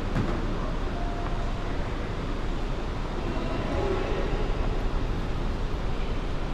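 Steady low rumbling vehicle noise with no distinct events.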